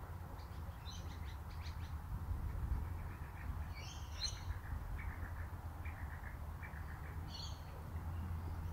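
Birds chirping in short bursts, three of them a few seconds apart, with a run of quick ticking calls in between, over a faint low steady rumble.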